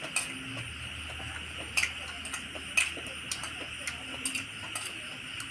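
Eating sounds: scattered sharp clicks and crunches of chewing and utensils on a dish, roughly one a second, over a steady high hiss.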